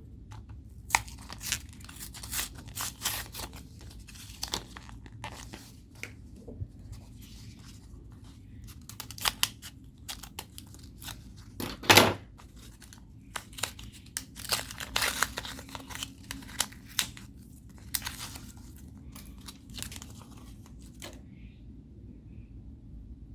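Homemade slime being stretched, squeezed and pulled apart by hand, crackling and snapping in bursts. There is one loud snap about halfway through.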